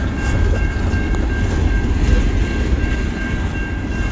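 Loaded coal hopper cars of a freight train rolling past: a steady, heavy rumble of wheels on rail, with a thin steady high whine over it.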